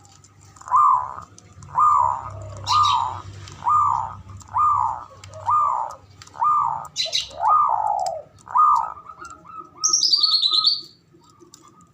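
Male zebra dove's cooing song: a run of about nine short, arched coos a little under a second apart, trailing off into a quicker, softer run of notes. A few short high chirps and, near the end, one higher descending call from another bird sound alongside.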